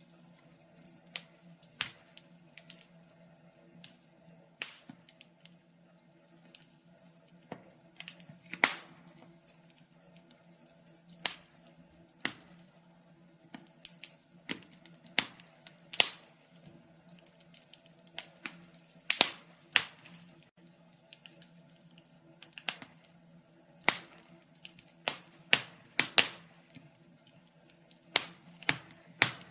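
Fire in a fireplace crackling, with irregular sharp pops, some much louder than others.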